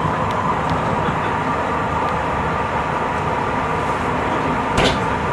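Tobu 50090-series electric train running at speed, heard from inside the passenger car: a steady rumble of wheels on rail with a constant hum through it. A single sharp clack comes near the end.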